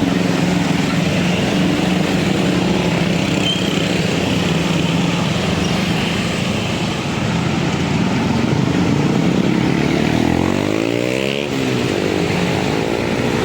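Vehicle engines running steadily at a railway level crossing. Near the end, one engine rises in pitch and then drops sharply as it passes close by.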